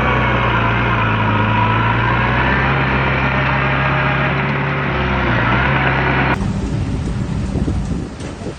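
Heavy diesel engine of earthmoving machinery running steadily, with a whine above its low drone. About six seconds in the sound cuts abruptly to a quieter, rougher rumble.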